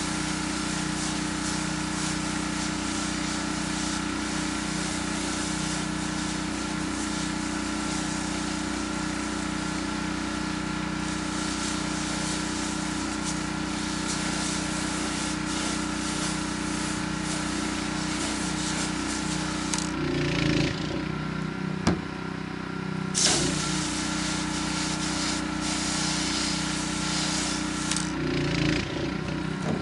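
Gas-engine pressure washer running steadily with water hissing from the spray wand as it siphons soap onto the concrete. The spray stops briefly about 20 seconds in and again near the end.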